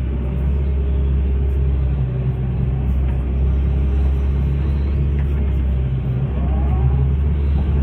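Hitachi hydraulic excavator's diesel engine running steadily under load, a deep, even rumble.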